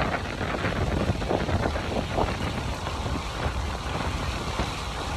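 Steady rain falling, with scattered sharp drop hits over an even hiss and a low rumble underneath.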